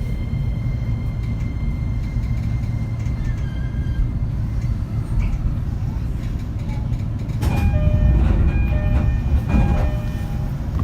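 Running noise inside a JR East E231-series commuter train under way: a steady low rumble of wheels on rail. About seven and a half seconds in it grows louder for a couple of seconds, with clatter and several steady tones.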